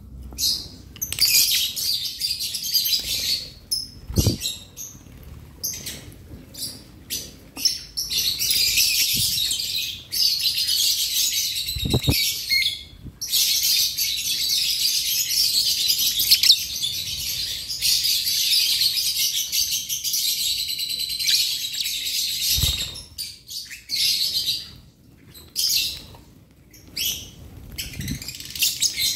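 A flock of lovebirds chattering and shrieking in an aviary, a dense, shrill, almost unbroken chatter that drops off briefly a few times. A few short, dull thumps stand out underneath.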